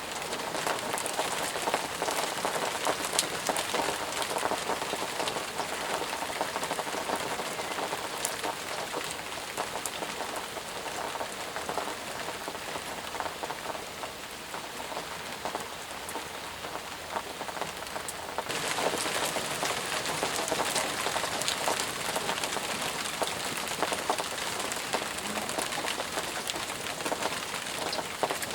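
Steady rain falling, with many distinct drop hits over an even hiss. About two-thirds of the way through, the sound abruptly turns brighter and a little louder.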